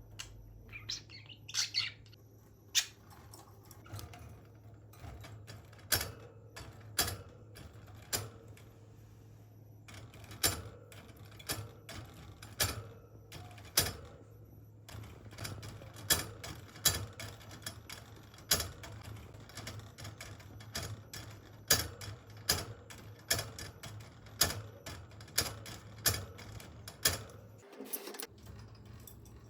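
Agitated budgerigar in its cage, making a stream of sharp, irregular taps and clicks at about one to two a second. A short chirp comes about a second in.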